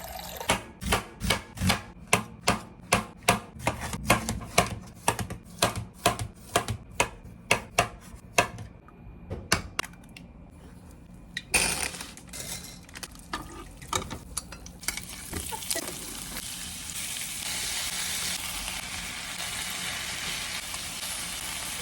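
Knife chopping on a cutting board, a steady rhythm of about two to three strokes a second. After a short lull and a few knocks, food sizzles in a frying pan, the sizzle growing and holding steady through the second half.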